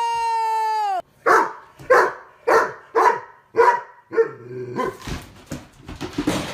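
A dog barking six times in a steady run, about two barks a second, followed by scuffling and mixed noise. A long, high-pitched held cry comes before the barks and cuts off about a second in.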